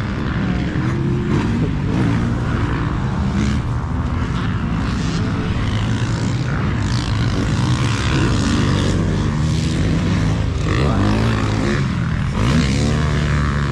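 2018 Yamaha YZ250X 250cc two-stroke single-cylinder dirt bike engine under hard riding, revving up and down as it accelerates, shifts and shuts off. The pitch rises and falls repeatedly, with sharp drops and re-climbs near the end.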